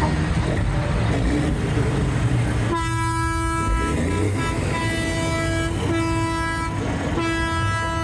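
Heavy truck engines running with a low rumble. About three seconds in, a truck horn starts sounding in repeated blasts of a second or so, one steady note each time.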